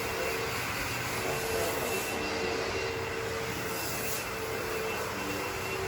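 Carpet cleaning machine running steadily, its motor giving a constant whine over a steady rush of air.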